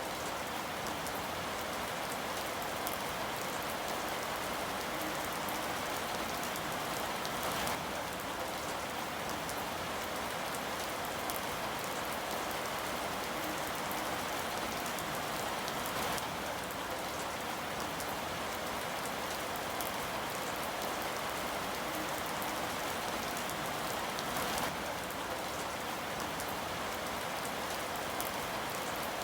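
Steady rain falling: an even hiss dotted with the sharp ticks of individual drops.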